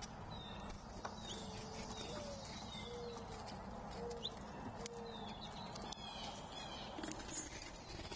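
A dove cooing, a run of about six low coos in the first half, over small songbirds chirping and trilling.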